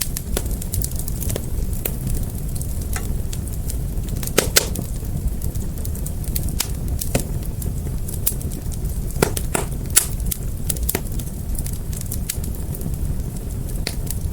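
Fire crackling: a steady low rumble of flames with scattered sharp pops and snaps, a few louder pops about four seconds in and again near ten seconds.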